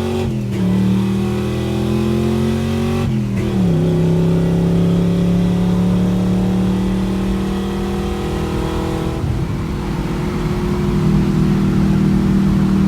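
327 small-block V8 pulling through the gears of a four-speed manual: the engine note climbs, drops at a gear change shortly after the start and again about three seconds in, then rises slowly in the higher gear and settles near the end.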